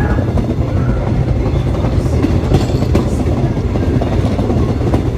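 Moving New York City subway train heard from on board: a steady low rumble of wheels on the track, with a few rail clicks about halfway through.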